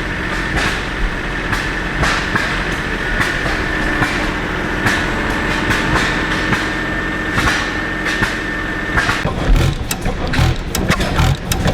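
Antique engines and machinery running: a steady mechanical clatter with a steady whine, giving way about nine seconds in to louder, irregular low thumps and sharp knocks.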